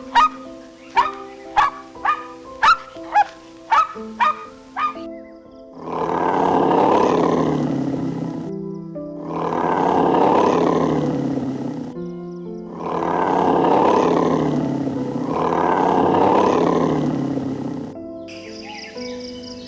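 Geese honking in a quick run of sharp calls, about two a second, for the first five seconds. Then a big cat gives four long, deep roars, each a few seconds long. Soft background music plays under the animal sounds.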